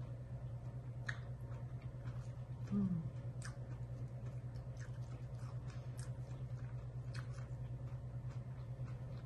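Someone chewing crisp raw salad, with scattered faint crunches and clicks over a steady low hum. A short low 'mm' from the voice comes about three seconds in.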